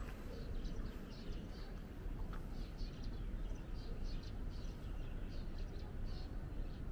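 Small birds chirping, many short high calls in quick succession, over a steady low street rumble.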